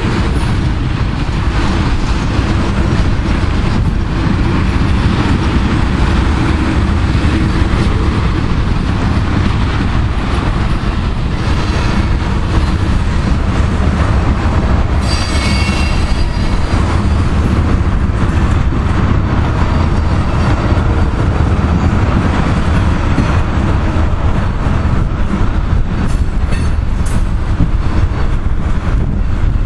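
Freight train's ethanol tank cars rolling past, a steady heavy rumble of steel wheels on rail with clicks over the rail joints. A brief high wheel squeal about halfway through.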